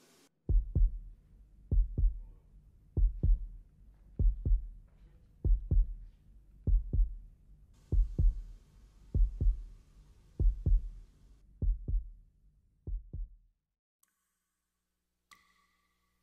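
Heartbeat sound effect: deep double thumps, about one beat every second and a quarter, eleven in all, stopping a few seconds before the end.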